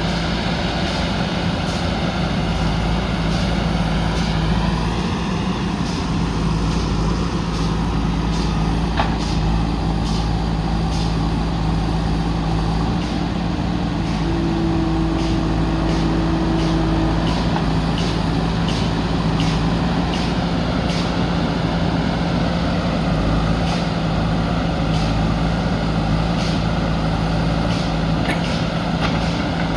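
Backhoe loader's diesel engine running steadily, with scattered short clanks and knocks throughout.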